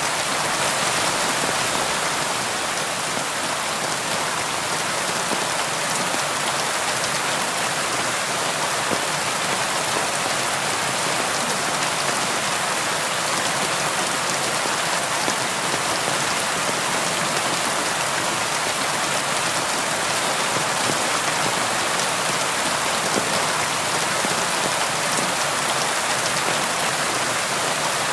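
Steady rain falling on a window, with fine drop patter and no change or thunder.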